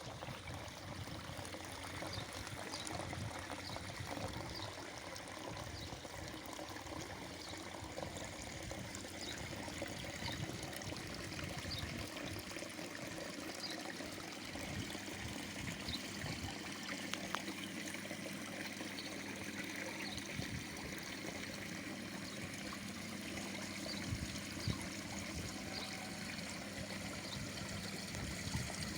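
Water from a garden waterfall trickling and splashing steadily into a koi pond.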